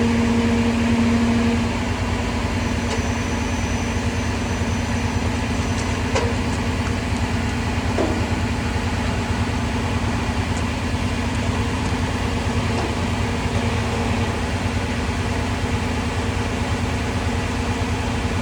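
Truck engine running steadily, with a steady humming tone over it that fades out about two seconds in.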